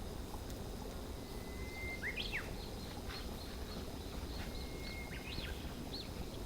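A songbird singing two phrases, each a held whistled note followed by a run of quick rising and falling notes, over a steady low background noise.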